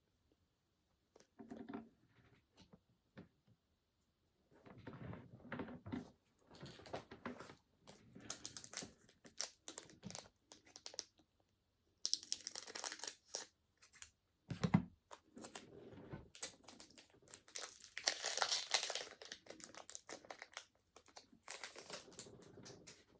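Pokémon booster pack foil wrappers crinkling and being torn open, in irregular rustling bursts, loudest twice in the middle stretch.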